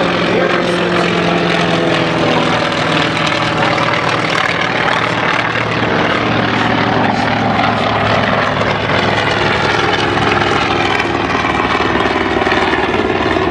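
FM-2 Wildcat's Wright R-1820 radial engine and propeller in a flyby. The pitch drops over the first few seconds as it passes, then settles into a steady, lower drone.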